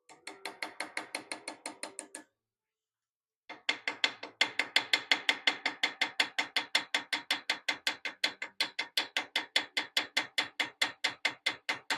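Rapid, even taps of a small hammer on metal, about six a second. A short run of about two seconds is followed, after a brief pause, by a longer run of about nine seconds.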